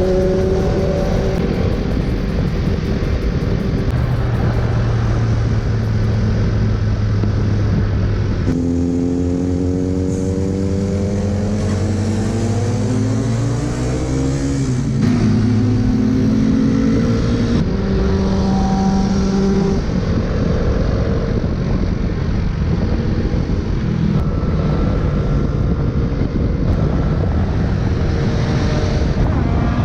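Motorcycle engines running on the road, their pitch rising and falling as the bikes accelerate and shift, with sudden changes in the sound where the footage is cut.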